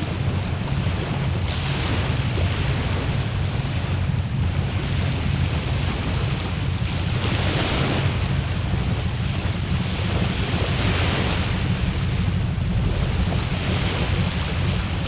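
Wood fire burning in a fire-disk brazier: a steady rush of flame and wind that swells and eases every few seconds, over a heavy low rumble of wind on the microphone.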